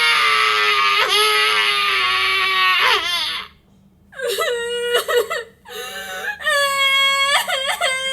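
Baby crying: one long wail, a short break about three and a half seconds in, then a run of shorter cries.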